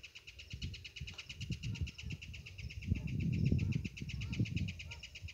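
A bird singing a fast, even trill of rapid pulses at one steady pitch, unbroken throughout, with a few softer short notes. A low rumbling noise swells beneath it, loudest a little past the middle.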